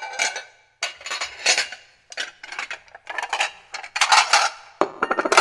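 Ceramic plates clattering and clinking against each other as they are handled and stacked, in quick irregular knocks with a brief pause about two seconds in.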